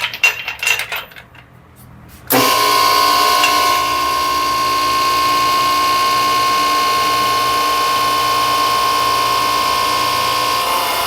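A few light metal clicks and knocks, then about two seconds in a hose crimping press starts with a sudden loud, steady motor whine and runs on evenly as it crimps the ferrule onto a power-steering pressure hose.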